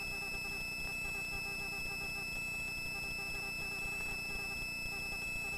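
Faint, steady helicopter cabin noise: a high-pitched whine with a fast, even pulsing underneath.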